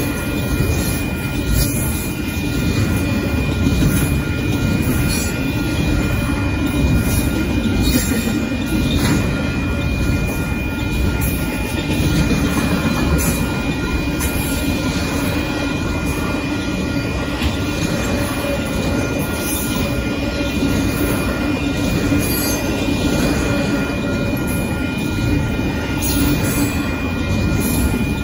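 Intermodal freight train cars rolling past a grade crossing at speed: a loud, steady rumble and clatter of steel wheels on rail, with a steady high-pitched tone held over it.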